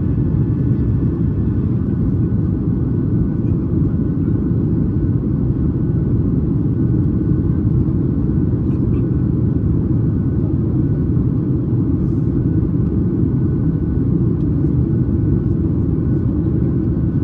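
Steady cabin noise inside a Boeing 737 MAX 8 with its CFM LEAP-1B engines running at power: a loud, even, low rumble with a faint steady tone above it.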